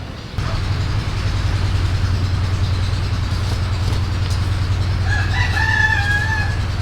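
A rooster crowing once, a drawn-out call lasting about a second and a half, starting about five seconds in, over a steady low rumble.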